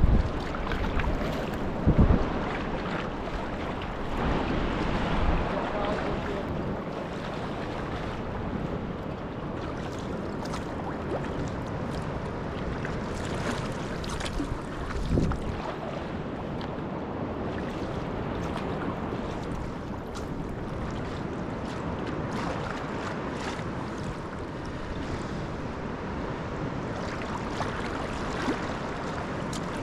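Sea water sloshing and splashing around a sea kayak, with wind buffeting the microphone in a few short low thumps, the strongest near the start and about halfway through.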